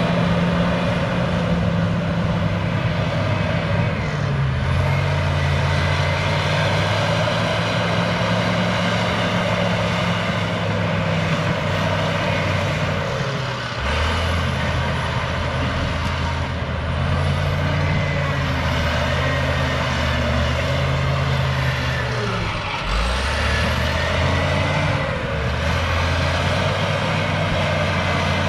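Caterpillar D6H crawler bulldozer's diesel engine running under load as it works, its pitch stepping up and down, with short dips about halfway through and again about three-quarters of the way. Faint squeals gliding in pitch sound over it.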